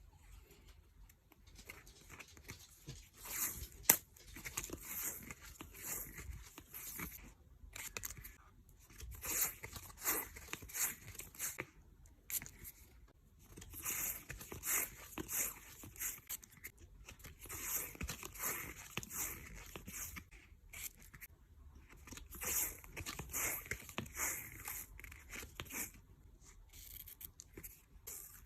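Washi tape being pulled off its roll and wound onto a card, a sticky tearing rasp in repeated pulls of a few seconds with short pauses between them. A sharp click about four seconds in.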